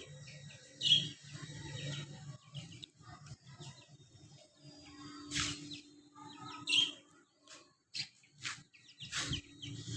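Baby chicks peeping in short high chirps, with a few sharp knocks among them.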